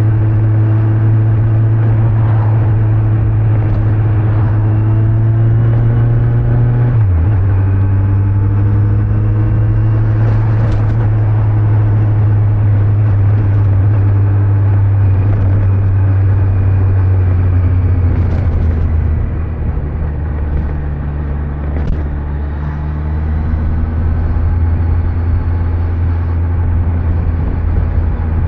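2025 Kawasaki Z900's stock-exhaust inline-four engine running at a steady road speed, with wind and road noise. About seven seconds in the engine note dips sharply for a moment and settles a little lower. In the last third the note falls and gets a bit quieter as the throttle eases off.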